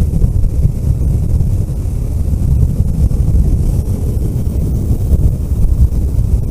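Vehicle driving along a road: a loud, steady low rumble of engine and road noise with wind buffeting the microphone.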